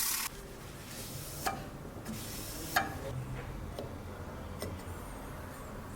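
A few short, sharp clicks and light taps, about four in all and the loudest near the middle, over a low hum: small hard objects being handled or set down on a workbench.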